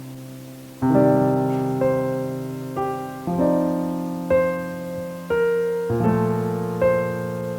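Background piano music: slow, gentle notes and chords struck about once a second, each ringing and fading.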